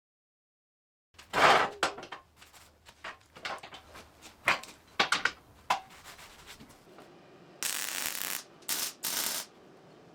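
Steel parts clanking and clinking as they are handled, a string of sharp knocks of uneven loudness. Near the end come three short bursts of hissing, crackly noise, the first about a second long.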